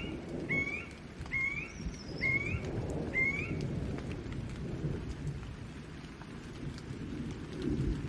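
Steady rain with rolling thunder rumbling low. Over it, about five short rising chirps come evenly spaced in the first three seconds, then stop.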